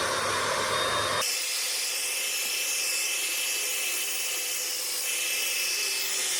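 Bombae 3-in-1 hot air brush's hair dryer attachment blowing steadily on its high setting while drying hair. About a second in the sound abruptly loses its low rumble and carries on as an even hiss.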